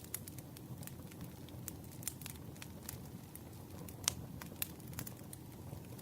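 Campfire crackling: a steady low rush of burning with irregular sharp pops and snaps, the loudest pop about four seconds in.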